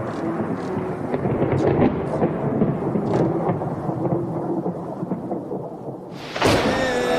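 Thunderstorm: thunder rumbling over steady rain. About six seconds in a sudden loud crash hits, followed by held musical tones.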